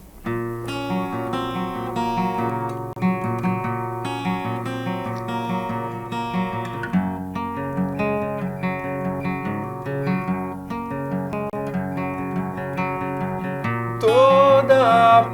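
Live guitar intro to a rock song: acoustic guitars picking and strumming chords over a steady bass line, with a male singing voice coming in near the end.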